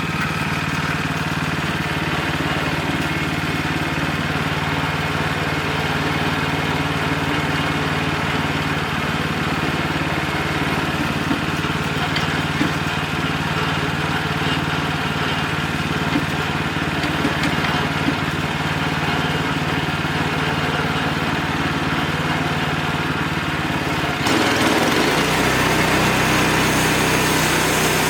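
Wood-Mizer LX25 band sawmill running steadily. Near the end its sound becomes suddenly louder and its pitch dips, then settles lower.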